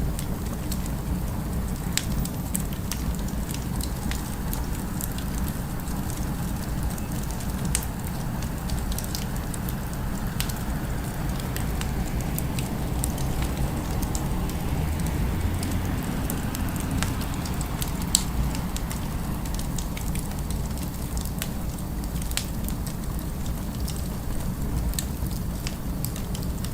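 Fireplace crackling, sharp irregular pops and snaps over a steady low rumble of city ambience, which swells slightly about halfway through.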